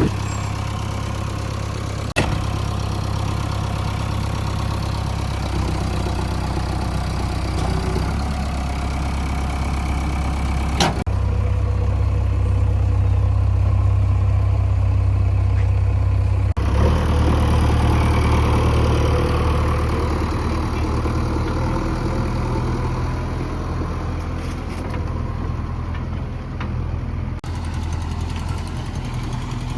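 Diesel engine of heavy farm or construction machinery running steadily at a low, even speed. The sound changes abruptly a few times, and there is a sharp click about eleven seconds in.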